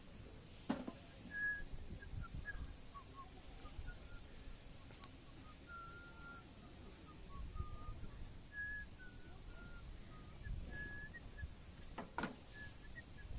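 Faint outdoor birdsong: short whistled chirps scattered throughout, with two sharp crackles from the wood fire, one about a second in and one near the end.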